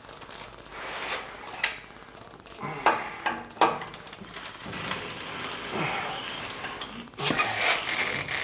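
Irregular metallic clinks and rattles, with a few sharp knocks, as an engine is lowered into a car's engine bay.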